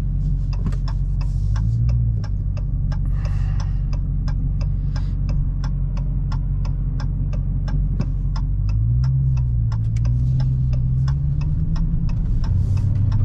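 Car turn-signal indicator ticking steadily, about three clicks a second, inside the cabin of a 2022 Dodge Challenger Hellcat, over the low drone of its supercharged 6.2-litre V8, which rises in pitch a little past halfway as the car picks up speed.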